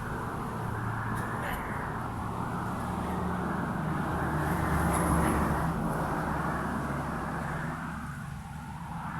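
A motor vehicle passing by: engine hum and road noise swell to a peak about halfway through, then fade away.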